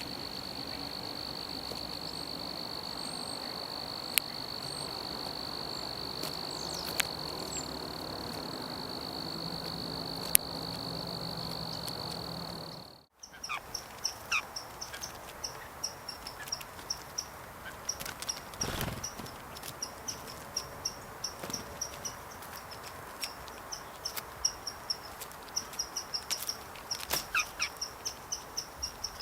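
Crickets calling: a steady, unbroken high trill for about the first thirteen seconds, then, after an abrupt cut, rapid short chirps repeating a few times a second, with a few sharp clicks.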